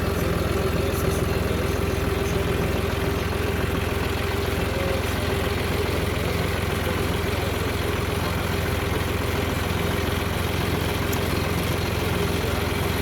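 A vehicle engine running at a steady speed, a constant low hum with a held mid-pitched tone and no change in speed.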